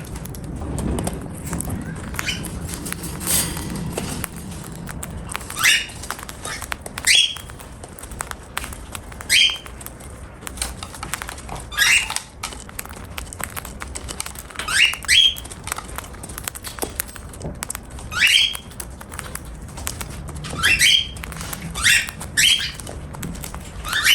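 Cockatiel giving short, sharply rising chirps, about a dozen of them, coming faster near the end, over a steady crackle of tiny clicks from its beak cracking seed as it eats.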